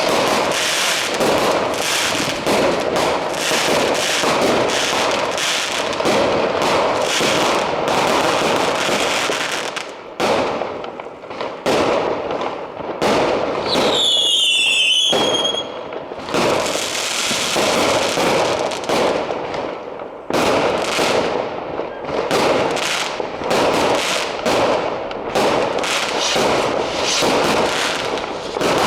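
Fireworks going off in rapid succession, a dense barrage of bangs and crackles. About halfway through, a whistling firework sounds with a falling pitch, and the barrage thins briefly before and after it.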